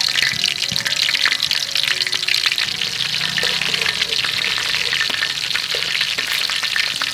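Food frying in hot oil in a pan: a steady sizzle with dense crackling and popping.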